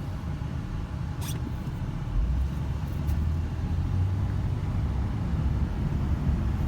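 2005 Ford Explorer Sport Trac's 4.0-litre V6 engine running, its low drone growing louder about two seconds in as the truck moves off. There is a single click about a second in.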